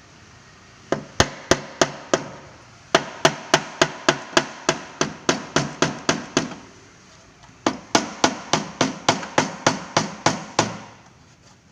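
Hammer blows on a dented Vespa body panel, panel-beating the dent out. The blows come in three runs of about three a second with short pauses between, each sharp and fading quickly.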